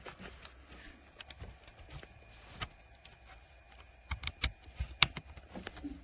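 Scattered light clicks and taps of a portable Bluetooth speaker and its charging cable being handled, with a few sharper clicks in the second half.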